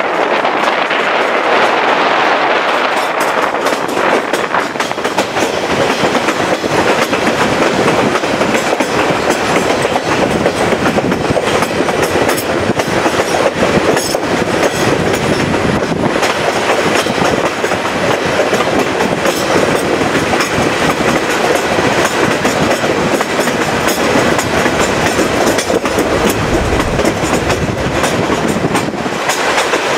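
The Chepe passenger train in motion, heard from an open window of one of its coaches: a steady rumble of wheels running over the rails, with a dense run of clicks from the track and air rushing past.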